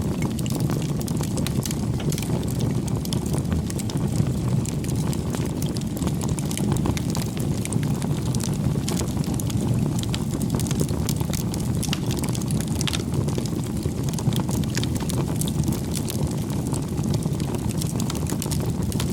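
Wood campfire burning: a steady low rush with many small, sharp crackles and pops throughout.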